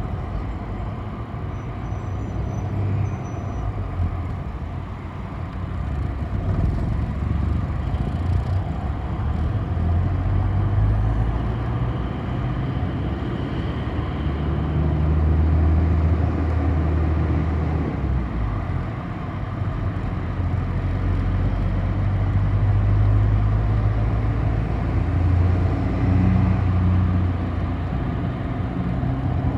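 City bus heard from inside while under way: engine running with road noise, the engine note swelling and easing several times as the bus speeds up and slows.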